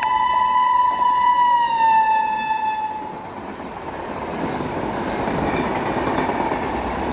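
An Indian Railways electric locomotive's horn sounds one long blast that drops in pitch as the locomotive passes. It gives way after about three seconds to the steady rush and rumble of the express coaches going by at speed.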